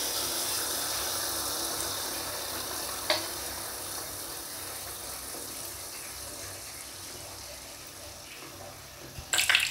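Neyyappam batter deep-frying in hot oil: a steady sizzling hiss that begins as the batter goes in and slowly dies down, with a single click about three seconds in. Near the end a louder, crackling sizzle starts up.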